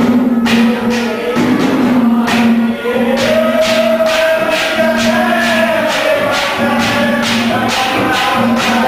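Haryanvi ragni folk music: a steady low drone and a long held melodic line over bright jingling percussion struck about three times a second.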